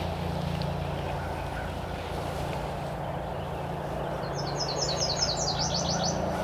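A songbird sings a quick run of high, repeated notes about four seconds in, over a steady low background hum.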